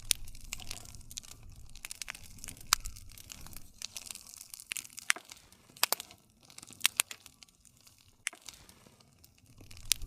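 Wood fire crackling: a low rustle of burning wood with sharp snaps and pops scattered throughout, the loudest around the middle.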